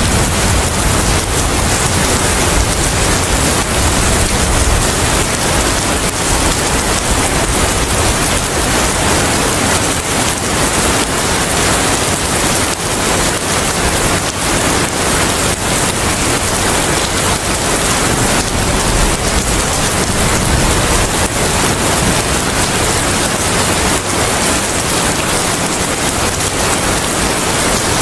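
Steady heavy rain, an even hiss, with a low rumble underneath that swells near the start and again about two-thirds of the way through.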